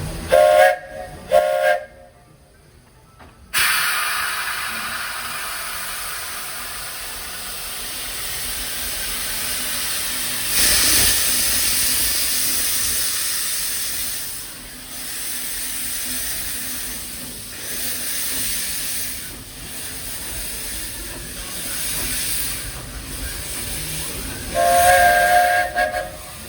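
Walt Disney World Railroad steam locomotive venting steam in a long, loud hiss that starts suddenly a few seconds in, swells, and fades. Its steam whistle gives two short toots at the start and two more near the end.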